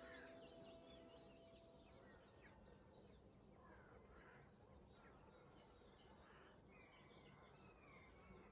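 Faint birdsong: many short chirps and twittering calls. The last notes of a held musical chord fade out about two seconds in.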